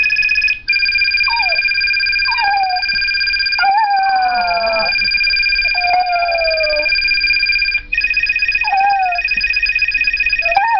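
A dog howling along to a phone ringtone. The ringtone's steady electronic tones play throughout and change pattern twice. Over them the dog gives about six short howls that fall in pitch; the longest comes about four seconds in.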